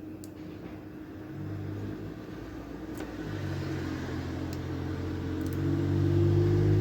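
A low mechanical hum, like an engine running, that grows steadily louder, with a few faint light clicks.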